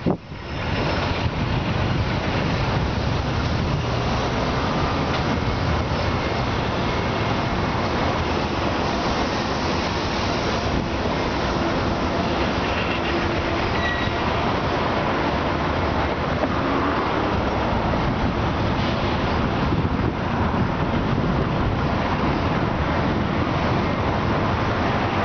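A train moving along the tracks: a steady rumble and rattle of wheels on rail that holds for the whole stretch.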